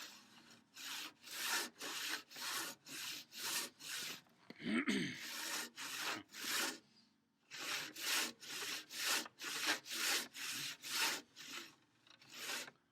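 Handsaw crosscutting a thick wooden workbench leg to length, in steady push-pull strokes of about two a second. The sawing pauses briefly about seven seconds in, then resumes.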